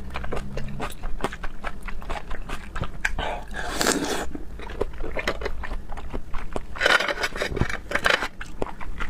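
Close-up eating sounds of raw seafood: a fast, irregular run of mouth clicks and smacks from biting and chewing, with a few longer rushes of noise about four and seven seconds in.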